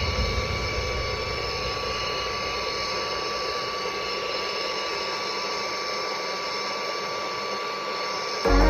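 A steady mechanical running noise with a constant high tone through it. Music cuts in abruptly just before the end.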